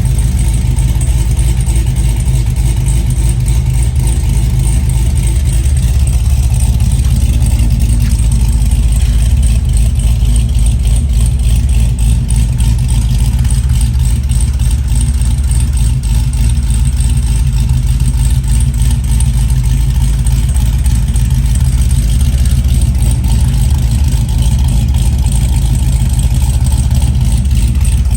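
Cadillac CTS-V V8 with a Brian Tooley Racing stage 3 camshaft idling steadily, its exhaust running through stock mufflers with the catalytic converters removed. The sound is loud and deep, with a fast, uneven pulse.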